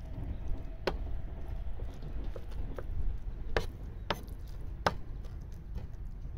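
Chef's knife mincing raw tuna with miso and aromatics for namero on a wooden cutting board: irregular, spaced-out knocks of the blade on the board, a few of them sharper than the rest.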